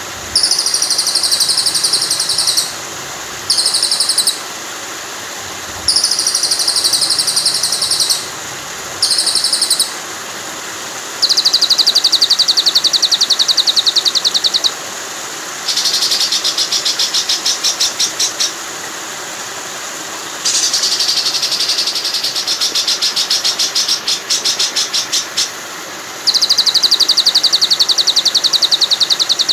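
Recorded songbird trills played as a masteran (song tutor) for white-rumped shamas: very fast, high, buzzy trills in bursts of one to four seconds, repeated with short gaps, over a steady rush of flowing water.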